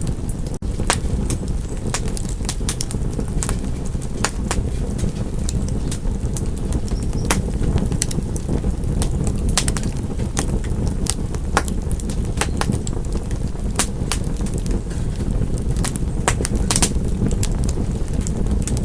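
Wood fire crackling, with many irregular sharp pops over a steady low rush.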